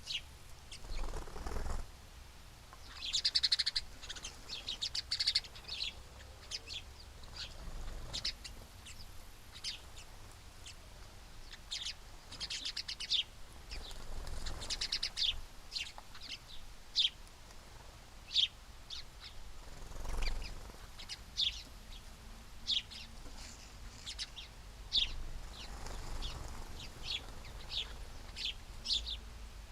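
Small birds at a feeder chirping: many short high chirps spaced irregularly, with a few quick trilled runs of chirps, and some soft low flutters in between.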